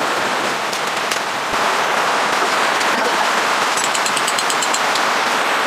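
Heavy rain falling, a dense, steady patter that grows a little louder after about a second and a half.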